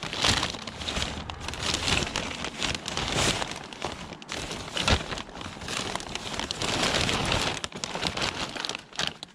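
Close crackling and rustling of junk being handled and rummaged through, with many small clicks and an uneven level.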